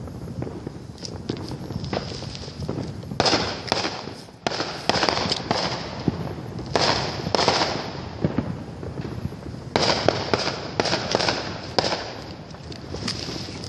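Fireworks going off out of sight: several clusters of rapid bangs and crackling pops, with short gaps between the volleys.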